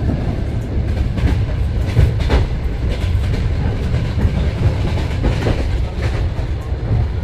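Overnight passenger train running, heard from inside the carriage: a steady low rumble with a few clacks of the wheels over rail joints.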